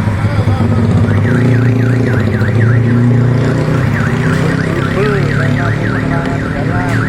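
A repeating electronic warble, its pitch swooping down and back up about four times a second, starts about a second in, over a steady low hum.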